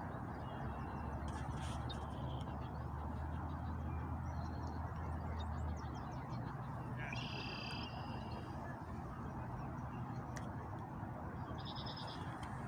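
Birds calling now and then, short high chirps with a longer call about seven seconds in and another near the end, over a steady outdoor rush of noise. A low hum sits under the first half and stops about six seconds in.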